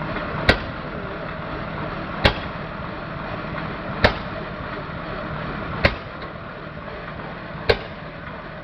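12 hp Mietz & Weiss stationary engine warming up, firing with a sharp bang from the exhaust about every two seconds, five times, with a steady run-on noise between the firings.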